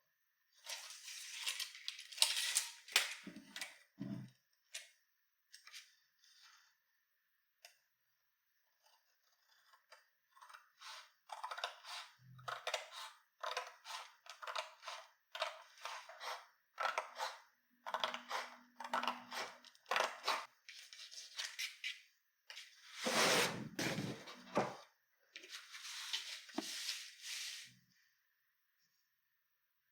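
A run of short clicks, clinks and rustles of small objects being handled close by, in uneven groups with pauses; the loudest clatter comes about three quarters of the way through.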